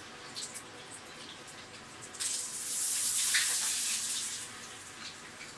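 Hot frying oil bursting into a loud sizzle about two seconds in as a spaghetti nest is lowered into it, then dying back to light crackling.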